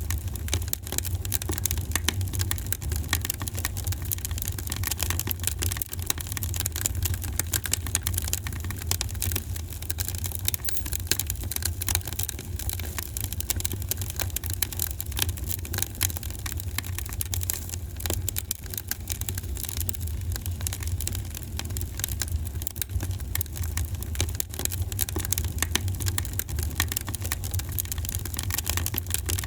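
Wood fire crackling, with dense irregular small pops and snaps over a steady low rumble.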